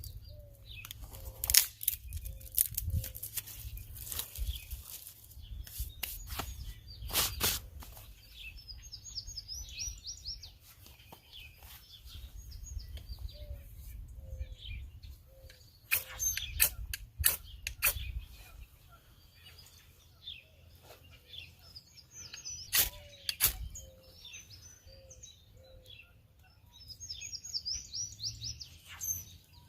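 Woodland birds singing: quick high warbling phrases come and go several times, alongside a bird repeating a low call note in short runs. Sharp clicks and knocks come through now and then over a low rumble.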